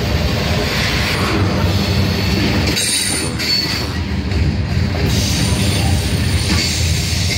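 Norfolk Southern freight train's cars rolling past, steel wheels rumbling steadily on the rails, with a faint high wheel squeal about three to five seconds in.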